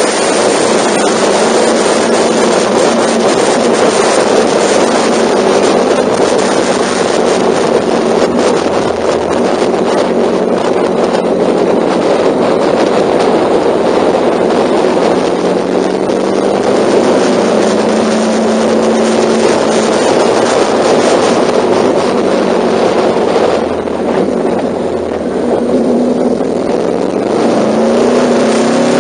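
Honda NC700's 670 cc parallel-twin engine running steadily at expressway speed, under heavy wind noise on the microphone. Near the end the engine note rises as the bike accelerates.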